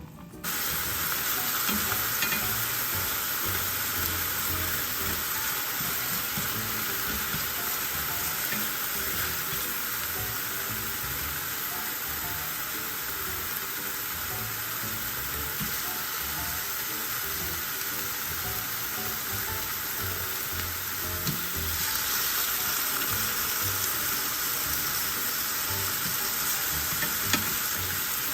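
Food sizzling as it fries in a hot pan: a steady hiss that starts suddenly about half a second in and keeps going.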